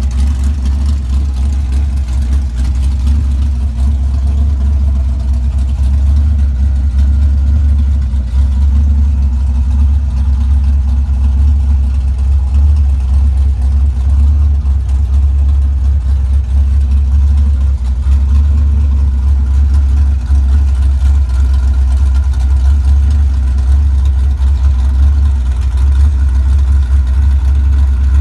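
Chrysler 440 big-block V8 with a tunnel-ram intake in a 1965 Dodge Coronet running steadily with a deep, even rumble, no revving.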